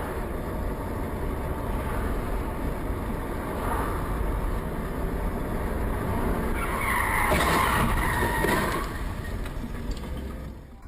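Car on the road, with steady tyre and engine noise, and tyres skidding for about two seconds starting around seven seconds in.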